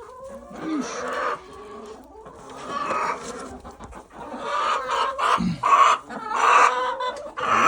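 Backyard hens clucking and squawking in a coop. The calls get louder and come more often in the second half.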